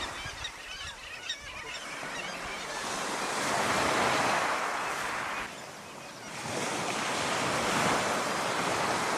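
Surf breaking on a rocky seabird coast, the rush of water swelling twice with a brief lull between. Faint bird calls in the first couple of seconds.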